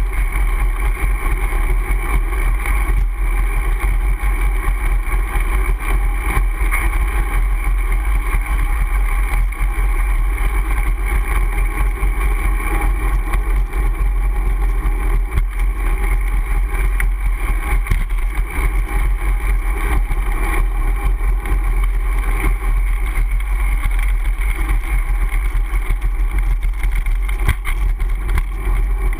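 Steady deep wind rumble on the camera microphone, with road noise from a Brompton folding bicycle being ridden. A few faint knocks come from bumps along the way.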